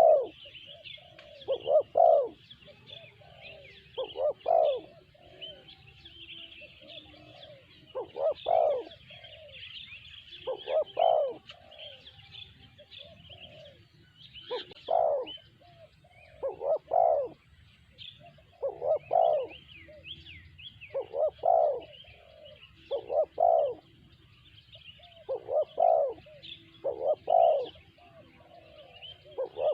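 A spotted dove (tekukur) cooing over and over, one coo phrase about every two seconds, with a brief pause about halfway through. Small birds chirp continuously in the background.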